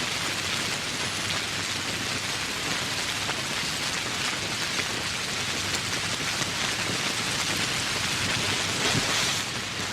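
Steady tropical rain with many single drops pattering through the hiss, swelling a little just before the end.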